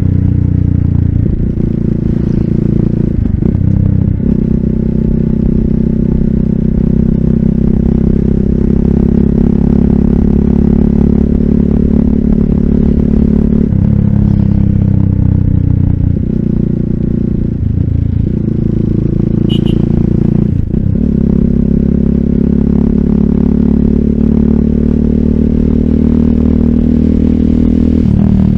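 RUSI Classic 250Fi motorcycle engine running under way through an aftermarket full exhaust with a bullet slip-on pipe and dB killer, a steady exhaust note with several brief breaks where the pitch drops and picks up again.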